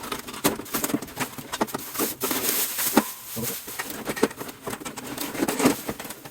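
Irregular rustling, crackling and knocks from a small portable electric heater and its packaging being handled.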